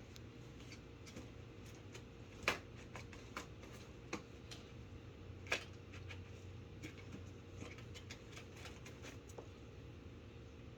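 Scattered light taps and rustling of a cat moving about and playing, with two sharper knocks about two and a half and five and a half seconds in, over a steady low hum.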